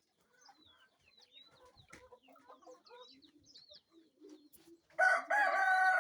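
Kienyeji chickens clucking and peeping softly, then a rooster crows loudly about five seconds in.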